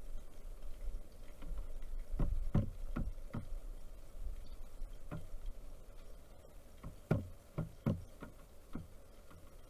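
Pileated woodpecker pecking at a bird feeder: low knocks in irregular runs, four in quick succession about two seconds in, then scattered knocks and another cluster near the end.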